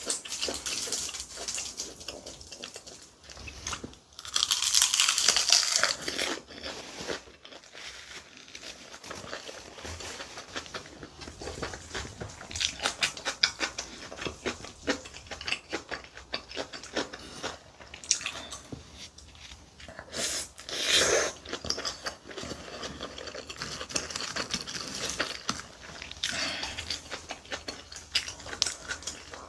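Close-miked chewing of spicy kimchi bibimbap wrapped in roasted seaweed: wet mouth clicks and crunching of kimchi, with louder crunchy stretches about four seconds in and again about twenty seconds in.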